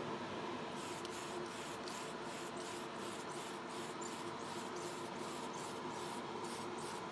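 Paint being sprayed onto a model car body in quick, repeated bursts of hiss, about two to three a second, starting about a second in and stopping just before the end, over the steady hum of a spray booth's extraction fan.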